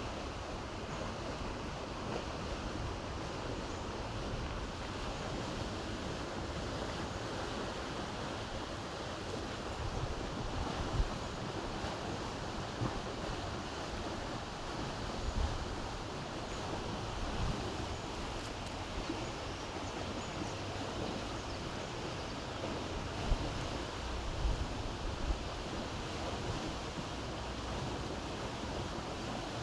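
Steady outdoor rushing noise, with wind buffeting the microphone in brief low gusts now and then.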